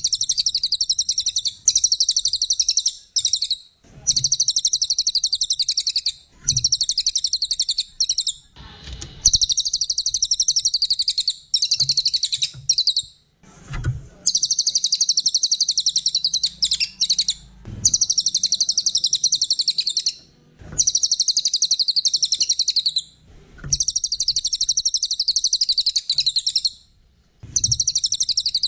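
Small songbird singing in long, high, rapid chattering phrases of a few seconds each, separated by short pauses. A few dull low thumps fall in the gaps between phrases.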